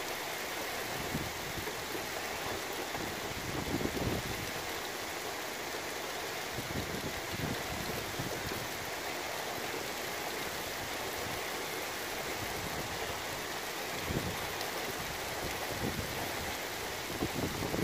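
Heavy rain falling steadily in a storm, with a few deeper gusts of wind surging now and then.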